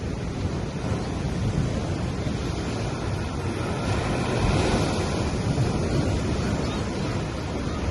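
Gentle sea waves washing up on a sandy beach in a continuous wash, one wave swelling louder about four seconds in and easing off near the end.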